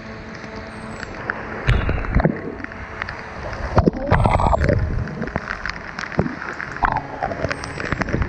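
Waterfall water splashing and gurgling, broken by irregular knocks and thumps.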